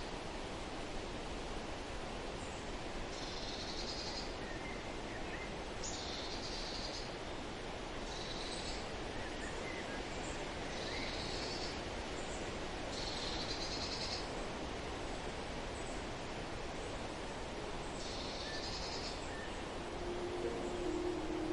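Steady rush of a waterfall, with a bird calling repeatedly over it: high calls of about a second each, every couple of seconds. Music begins faintly near the end.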